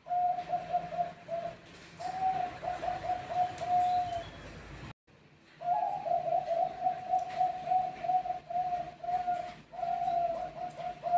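Bangkok-bred zebra dove (perkutut) singing: rapid strings of short, clipped coos at a steady pitch. Two short phrases are followed by a brief break, then a longer run.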